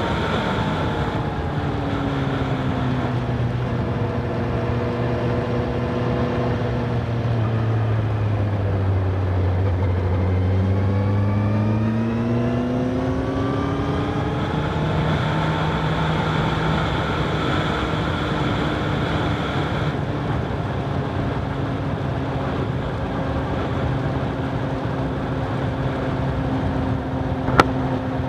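Honda CBR1000RR SP's inline-four engine under way: its note falls steadily for the first nine seconds or so as the bike slows, climbs again from about ten seconds as it picks up speed, then holds steady at a cruise, with wind noise on the microphone. A sharp click sounds once near the end.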